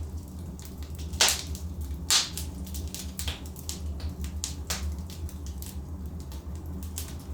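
Wood fire crackling as logs burn in a fireplace: a steady low rumble with sharp, irregular pops, two of them louder about a second and two seconds in.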